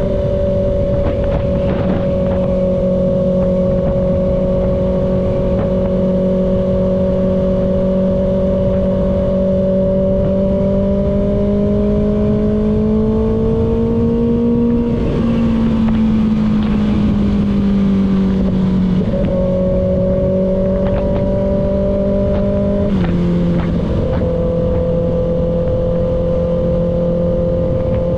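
Kawasaki ZX-6R's inline-four engine cruising at a steady mid-range speed under rushing wind noise. The engine note climbs slowly, eases down about fifteen seconds in, and drops a step about twenty-three seconds in.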